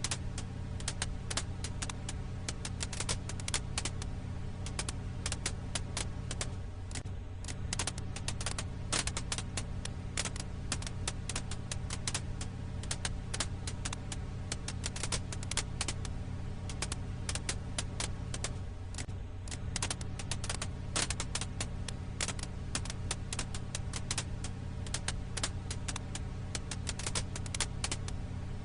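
Wood fire crackling: dense, irregular pops and snaps over a steady low hum.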